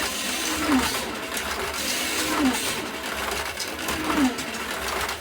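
1:32 scale slot cars' small electric motors whining as they lap the track. The pitch drops about every second and a half to two seconds, repeating in an even lap rhythm.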